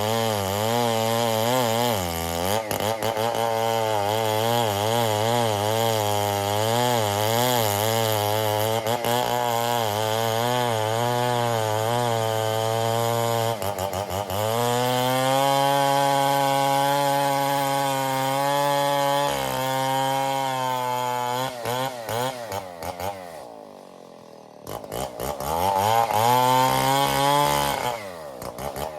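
Stihl 070 two-stroke chainsaw cutting ironwood under load, its engine pitch wavering as the chain bites. About halfway it dips briefly and picks up again; later it falls toward idle, revs up once more, and eases off near the end.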